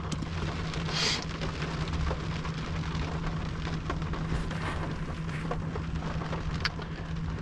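Rain pattering steadily on the car's roof and windshield, heard from inside the cabin as a dense crackle of small drops, over a steady low hum.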